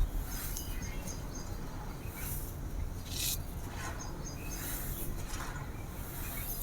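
Dry blue-dyed sand-cement crust crumbling and crunching, with a few sharper crunches, the strongest a little past three seconds in, over a steady low rumble; birds chirp faintly in the background.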